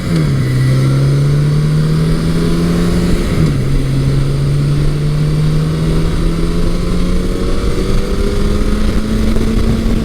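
Big-bore motorcycle engine accelerating hard through the gears. The revs drop at an upshift near the start and again about three and a half seconds in, then climb steadily to the end.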